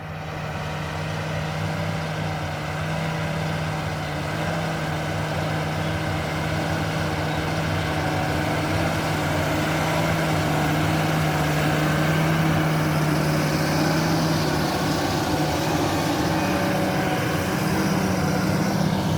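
Large John Deere 8R-series tractor's diesel engine running steadily, its pitch rising somewhat about fifteen seconds in as the engine speeds up.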